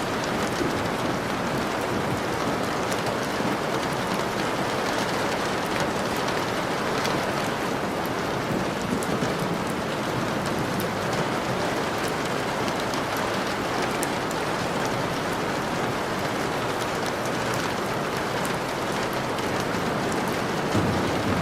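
Steady, heavy rain falling, a constant hiss with individual drops ticking through it.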